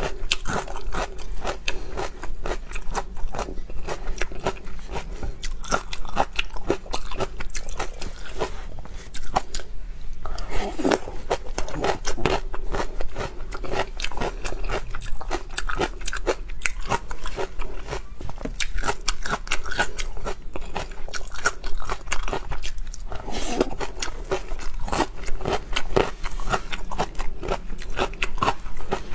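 Close-miked chewing of whole green peppers in chopped red chili: a continuous run of crisp, wet crunches and bites.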